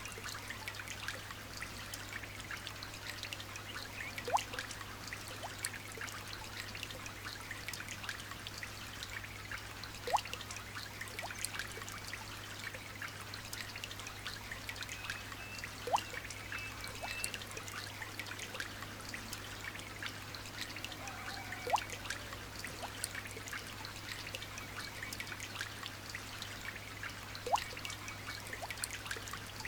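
Light rain dripping and trickling, a steady patter of many small drops. A louder single drip plinks about every six seconds, five times in all.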